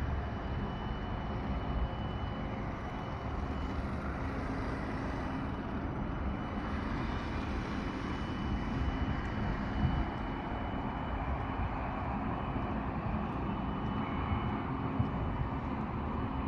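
HOWO 6x4 heavy truck's diesel engine running steadily, a continuous low rumble.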